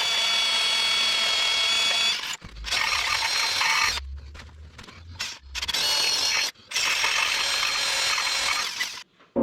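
Electric drill boring into a grader blade with a freshly resharpened bit, running in three spells with short pauses between, a steady whine with high ringing tones. A few low knocks come in the middle pause.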